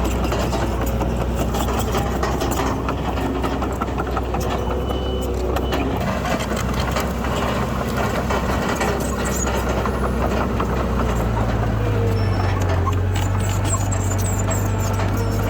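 Heavy diesel construction machinery running steadily. A deeper, stronger engine note comes in about eleven seconds in and holds.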